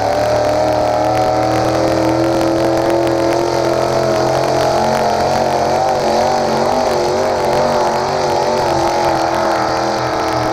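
The engine of a tractor-pull vehicle running at high revs under load as it drags the weight-transfer sled. Its pitch wavers up and down in the middle and climbs again near the end.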